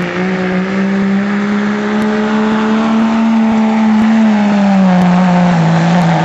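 Diesel pickup truck engine at full throttle pulling a sled, a loud steady drone. Its pitch climbs a little, then sags about four to five seconds in as the engine is pulled down under the growing load.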